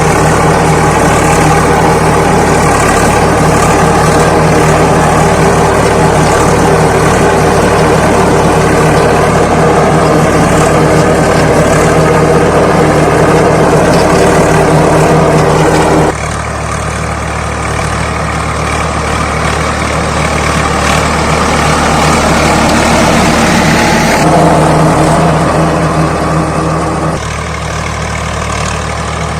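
Swaraj 855 FE tractor's three-cylinder diesel engine running steadily. The sound drops suddenly about halfway through, comes back louder briefly, then drops again near the end.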